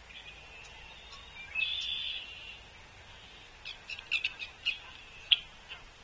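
Songbirds calling: a buzzy, wheezing note about two seconds in, then a quick run of sharp chips and clicks, the loudest near the end.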